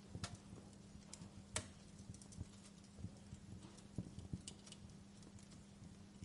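Campfire crackling: irregular sharp pops and snaps of burning wood, the loudest about a second and a half in, over a faint steady hum.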